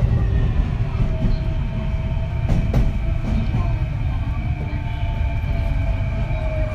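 Kintetsu 3220 series train running, its Hitachi IGBT inverter and traction motors whining in thin steady tones that sag slightly in pitch over a heavy rumble of wheels and body. There is one sharp knock from the track about two and a half seconds in.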